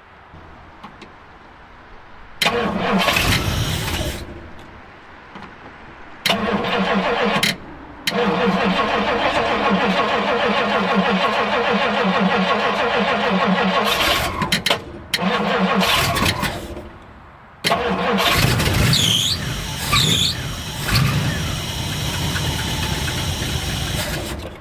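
A 1962 Ford Galaxie's V8 being cranked by its starter in several separate tries, the longest about six seconds, with an even rhythmic churn and no clear catch into a steady idle. Two short squeaks come through during the last try.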